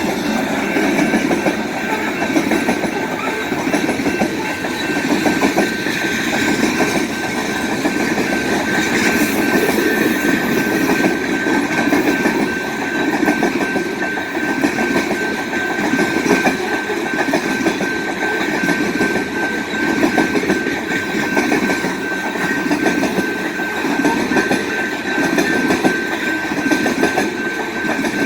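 Freight train cars rolling steadily past, wheels clicking and clattering over the rail joints, with a thin steady high whine running through.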